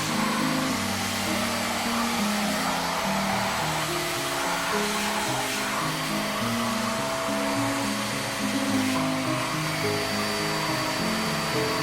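Vacuum cleaner running steadily, with background music playing a stepping melody over it.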